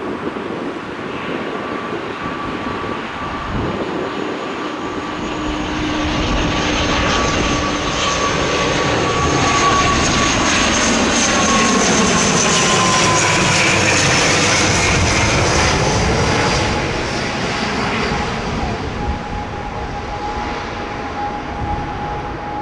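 Jet airliner passing low overhead close to the runway end. Its engine rush swells to a peak in the middle, and its whine falls in pitch as it goes by.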